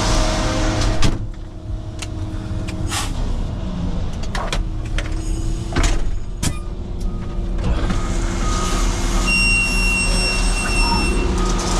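Concrete mixer truck's engine running steadily at idle, with a series of knocks and clicks and a louder thump about a second in. A steady high tone sounds for about two seconds near the end.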